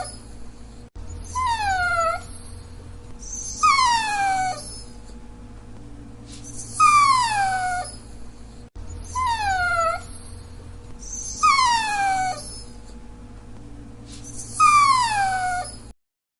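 A dachshund whining: six high whimpers, each falling in pitch over about a second, coming every two to three seconds.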